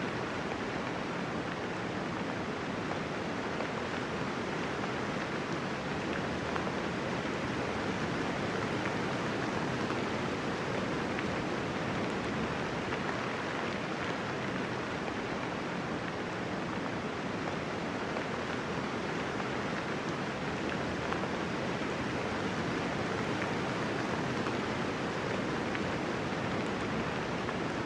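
Steady light rain falling, an even hiss without thunder.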